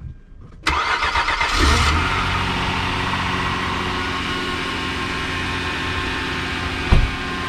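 2011 Hyundai Santa Fe's 3.5 V6 cold-starting at about −28 °C with no block heater plugged in. It fires under a second in, flares up briefly, then settles into a steady fast idle. A single thump comes near the end.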